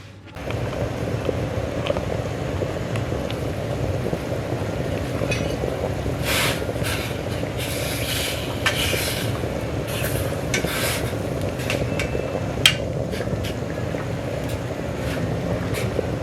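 Steady noise of cooking on the stove, with a metal utensil scraping and clinking against a pot or pan in short bursts and one sharp clink near the end.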